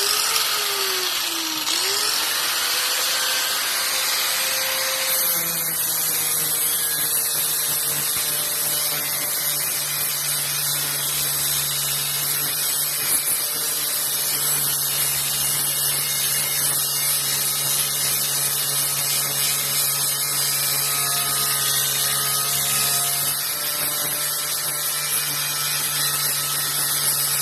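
Electric grinder grinding down welds on a steel mini bike frame, a steady loud grinding whine. Its motor pitch dips about a second in as the disc bites into the metal, then holds steady.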